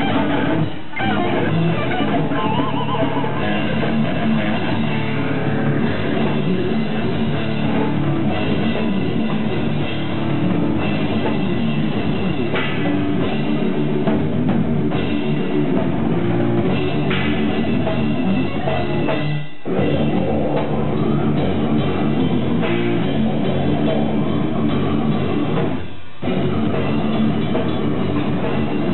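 Death metal band playing live: distorted electric guitars and drum kit, with brief stops about a second in, around two-thirds of the way through, and again near the end.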